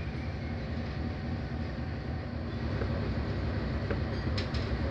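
Passenger train running along the track, heard from a coach window: a steady rumble of the wheels on the rails, with a few sharp clicks about four and a half seconds in.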